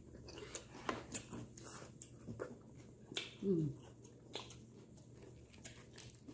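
Close-up eating sounds: chewing and biting on Hot Cheetos-coated frog legs, with scattered small clicks and crackles. About three and a half seconds in, one short falling "mm" from an eater.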